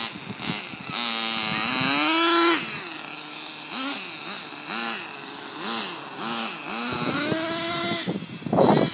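Sirio .09 nitro glow engine of a Kyosho Mini Inferno RC buggy revving: it climbs to a high rev about two and a half seconds in, then gives a string of short throttle blips, each rising and falling. It holds a steady pitch for a moment and breaks into a louder, rougher burst near the end.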